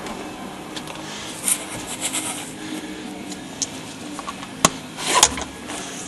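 Hand tools and bolts clinking and knocking against metal parts as the engine's crossbar is fitted. The strikes come a few at a time at irregular intervals, and the two loudest are close together past the middle.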